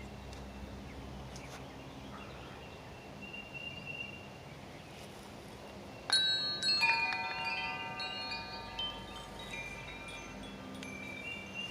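Wind chimes ringing: a sudden cluster of strikes about six seconds in, each tone ringing on at several different pitches, then a few lighter strikes.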